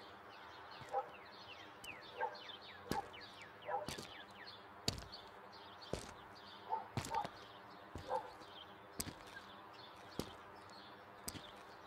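Faint birds chirping in quick runs of short, downward-sweeping chirps, with scattered sharp clicks throughout.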